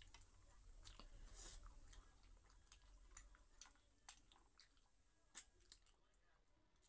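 Faint close-up chewing of people eating with their hands, with irregular small mouth clicks and a brief louder noise about one and a half seconds in.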